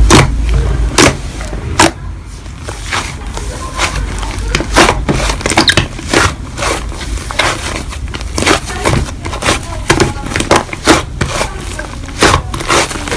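Slime being squeezed and poked by hand, giving an irregular run of quick clicks and pops.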